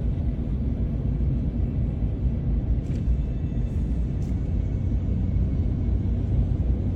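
Steady low rumble of a truck driving, engine and tyre noise heard from inside the cab.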